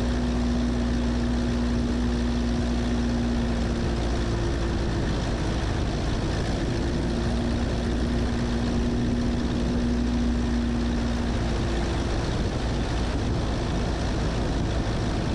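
Cessna 172S Skyhawk's four-cylinder Lycoming engine and propeller running steadily at approach power, heard in the cabin on final approach. A low steady tone is laid over the drone for the first few seconds and again in the middle.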